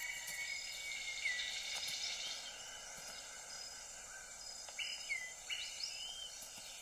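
Rainforest ambience: insects droning in several steady high tones, with scattered bird whistles and chirps and a few louder rising and falling whistled notes about five seconds in.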